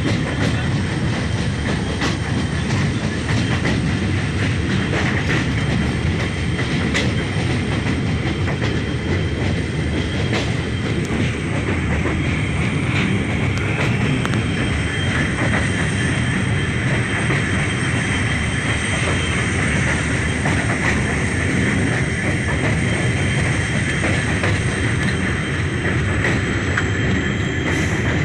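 Moving passenger train heard from inside a coach: steady rumbling running noise of the wheels on the rails, with a faint high whine held throughout and occasional irregular clicks.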